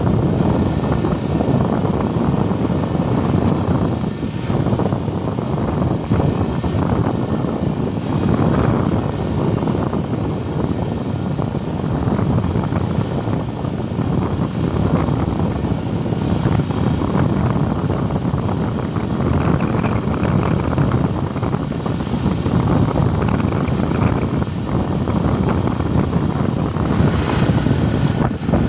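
Loud, steady rumbling noise with no clear pitch, continuing without a break.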